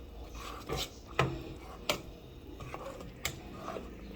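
A stirring spoon knocking and scraping against a pot of mashed refried beans as shredded cheese is worked in. There are a few irregular knocks, some with a short dull ring.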